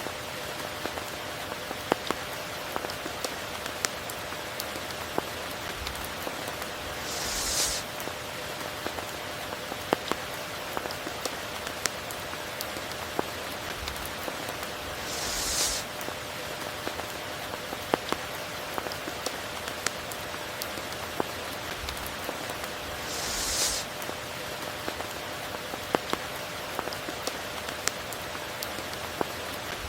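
Steady rain falling, with many separate drops striking close by. About every eight seconds a brighter hiss swells up and cuts off.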